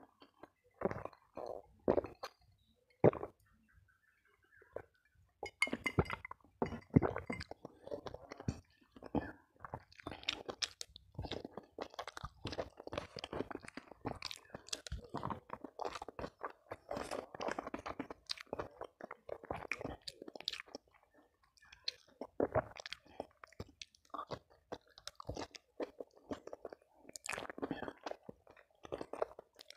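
Close-miked chewing and crunching of spicy balado chicken necks, crackers and raw vegetables eaten by hand: wet chewing with many sharp crunches, sparse for the first few seconds and then almost continuous.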